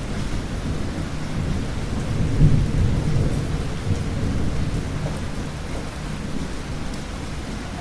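Thunder rumbling over steady rain, the low rumble swelling about two and a half seconds in and then slowly fading.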